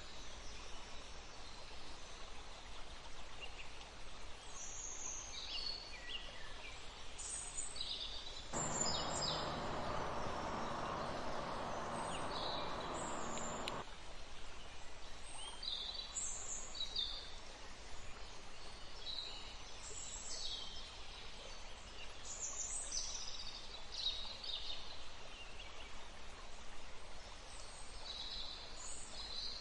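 Forest birds giving short chirps and calls throughout, over a steady hiss of running river water. For about five seconds in the middle, a louder rushing noise with a faint low hum comes in suddenly and cuts off just as suddenly.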